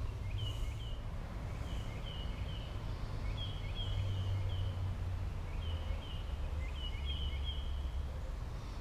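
A bird calls over and over in short high chirps, mostly in twos and threes, over a steady low rumble on the microphone.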